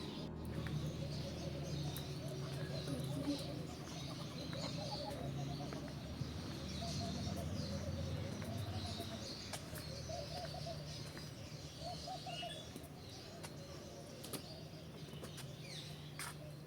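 Many birds calling in an aviary: high chirping and twittering, with repeated lower calls, over a steady low hum.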